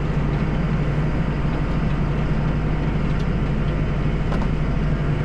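Deutz-Fahr 5120G tractor's diesel engine and front-mounted dual-auger snowblower running, heard from inside the cab as a steady, even drone.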